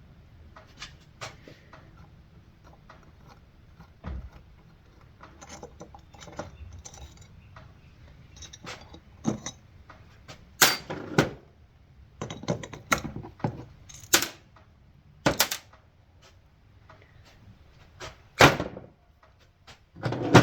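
Scattered metallic clicks, clinks and knocks of hand tools and small chainsaw exhaust parts being handled on a workbench, sparse at first and busier in the second half.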